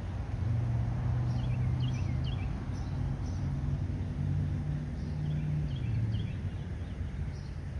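Outdoor ambience: a steady low droning hum, like a distant engine, with small birds chirping in two short bursts of quick repeated notes.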